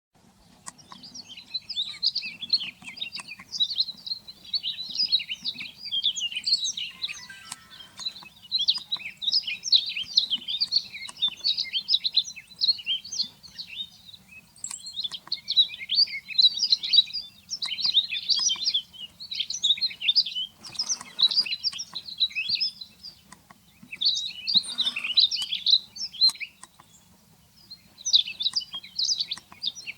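Small songbirds chirping and twittering almost without pause, with a short lull near the end. Two brief rustling noises come in the second half.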